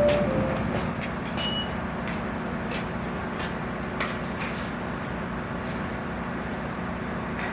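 Chichibu Railway 6000 series electric train standing at the platform, its onboard equipment humming steadily. The last note of a two-note chime sounds at the very start, a short high beep comes about a second and a half in, and faint clicks are scattered throughout.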